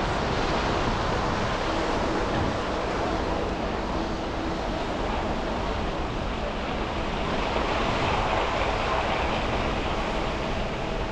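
Steady hiss and hum of city traffic and car tyres on wet, snowy streets, with some wind on the microphone. A faint steady tone sits in the wash, lower at first and higher near the end.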